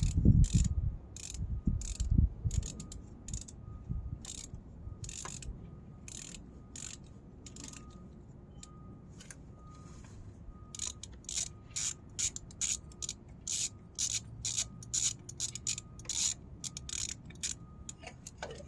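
Socket ratchet clicking in quick runs as a spark plug is worked out of the engine, with a few heavy knocks in the first couple of seconds.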